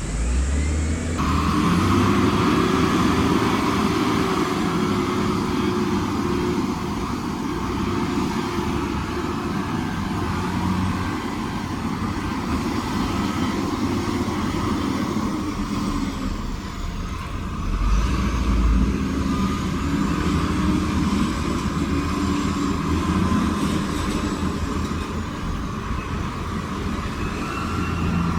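Heavy diesel construction machinery running and working under load, the engine note rising and falling, with a heavier surge about two-thirds of the way through.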